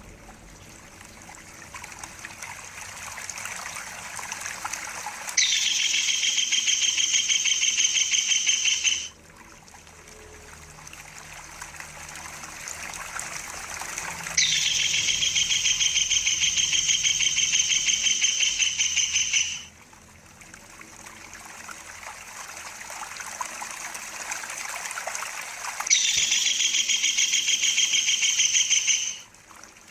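Kingfisher giving its long rolling trill three times, each a rapid pulsing call held for several seconds, over the steady sound of trickling water that fills the gaps between calls.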